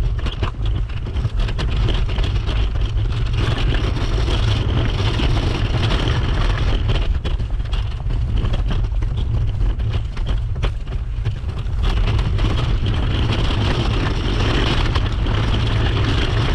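Wheels rolling over snow, with scattered short crunches and a steady low rumble.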